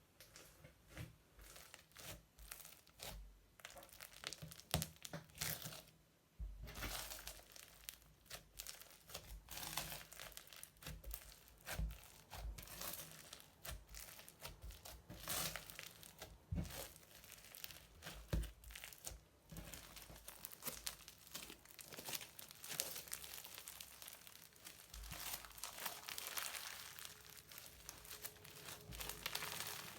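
Crunchy slime mixed with modelling foam being worked by hand, giving dense, irregular crackling and popping.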